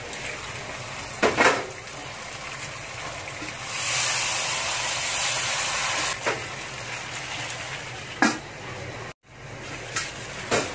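Marinated chicken pieces sizzling and steaming in a wok over low heat, the sizzle growing louder for about two seconds near the middle. A few short knocks of a utensil or lid against the wok come through it.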